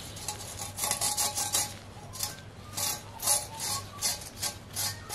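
Thin sheet-metal exhaust heat shield handled by hand, rattling and scraping in a string of short, irregular metallic clinks. Its washers and bushings are worn, which lets it rattle.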